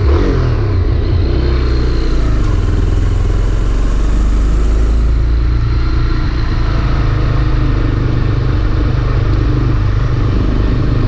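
Honda CB300R motorcycle's single-cylinder engine running steadily at idle, making the strange noise the owner complains of and likens to an old VW Beetle; the bike has also been revving up on its own.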